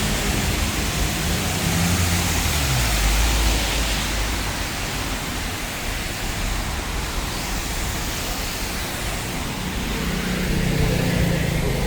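Steady hiss of rain and wet road noise on a busy city street, with the low rumble of vehicles passing in the first few seconds and again near the end.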